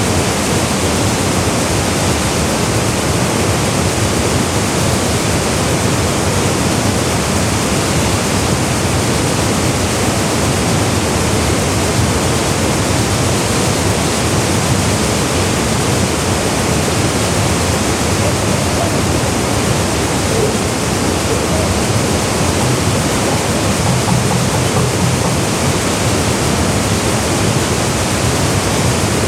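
Waterfall pouring into its pool: a loud, steady rush of falling water that does not change.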